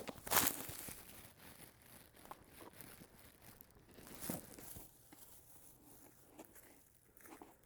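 Footsteps crunching and rustling through undergrowth, with a loud crackle about half a second in and another about four seconds in.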